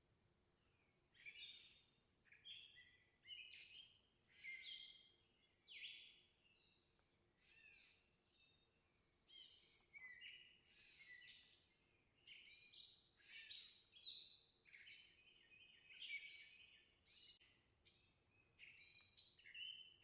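Faint songbirds singing and calling: a steady run of varied high chirps, trills and whistled phrases, with a rising whistle about halfway through.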